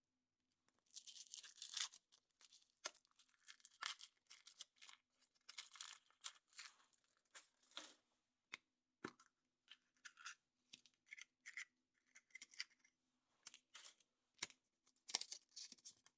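Quiet crinkling and tearing of the thin foil wrapper being peeled off a chocolate surprise egg, in irregular crackly bursts with a few sharp clicks.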